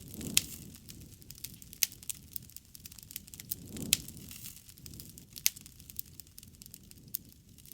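Wood fire crackling, with irregular sharp pops and snaps over the low rush of the flames, which swells briefly near the start and again about four seconds in.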